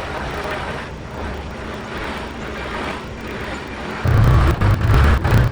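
Diesel engine of working earthmoving equipment running steadily. About four seconds in it suddenly becomes much louder and deeper, with a ragged, buffeting rumble.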